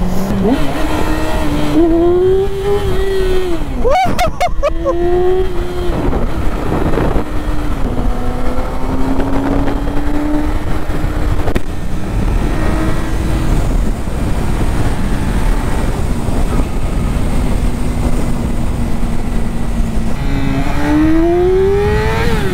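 Yamaha YZF-R6 inline-four engine under way at road speed, its pitch climbing under acceleration and dropping back several times, with long stretches of steady cruising and a rise again near the end. Wind rush over the microphone runs underneath.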